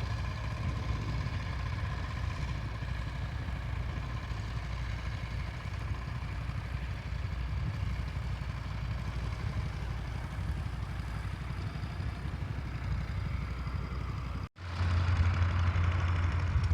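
Tractor engine running steadily, heard at a distance with a low drone. About three-quarters of the way through it drops out for a moment, and a closer, louder engine hum follows.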